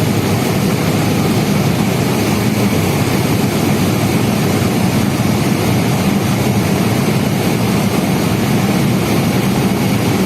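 Cessna 172N's four-cylinder Lycoming engine and propeller running steadily on final approach, a constant drone with no change in power.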